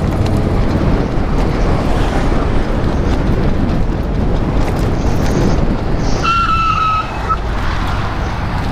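Steady rush of wind on the microphone and tyre noise from a moving e-bike. About six seconds in, a steady high-pitched beep sounds for about a second.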